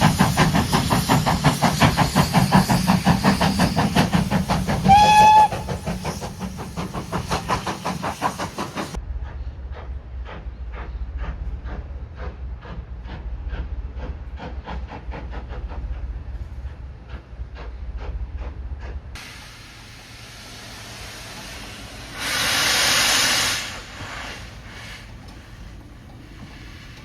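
Steam locomotive exhaust beating very fast as the driving wheels slip, with a short whistle blast about five seconds in. Then another steam locomotive's exhaust beats, quieter and regular, fading away, and near the end a loud burst of steam hiss lasting about a second and a half.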